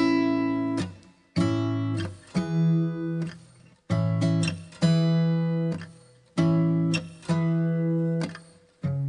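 Background music: acoustic guitar chords plucked one at a time, each left to ring and fade, about one a second.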